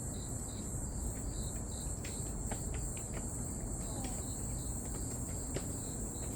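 Grass insects such as crickets chirring steadily, a continuous high trill with lighter repeated chirps underneath. Low background rumble.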